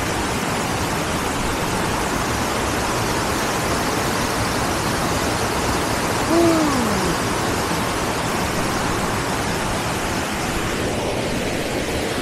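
Steady rushing of flowing water, with a short falling hoot about six seconds in.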